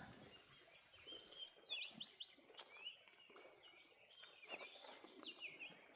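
Faint bird chirps: many short calls with quick up-and-down pitch sweeps, repeating throughout over quiet background.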